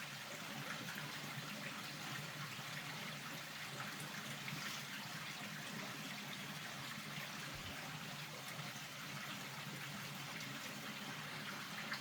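Rainwater trickling and running steadily.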